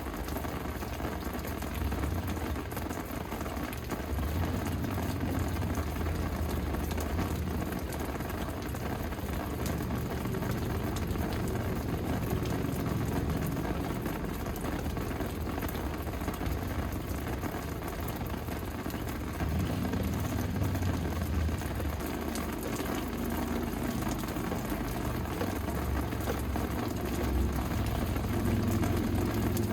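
Steady rain falling, an even hiss with an uneven low rumble underneath.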